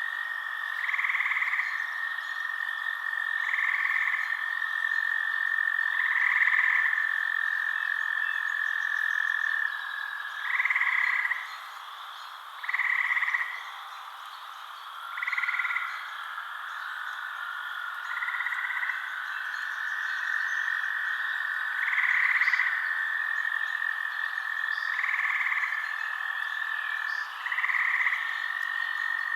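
Frogs calling: short croaks repeated every two to three seconds over a continuous high trill.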